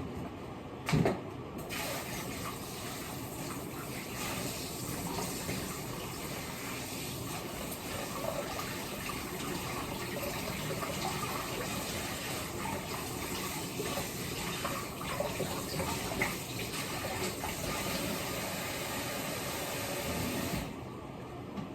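Kitchen tap running water steadily for about nineteen seconds, turned on just under two seconds in and shut off abruptly near the end. A short knock about a second in is the loudest sound.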